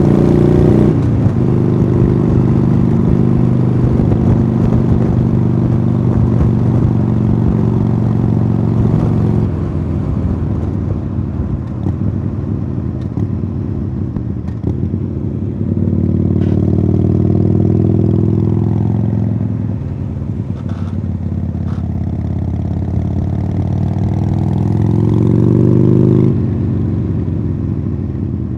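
Harley-Davidson Sportster Iron 883's air-cooled V-twin running through Khrome Werks Tapered 3 slip-on exhausts under riding load. It eases off the throttle about a second in and again near ten seconds, pulls hard again from about sixteen seconds, and rises in pitch before dropping off the throttle about twenty-six seconds in.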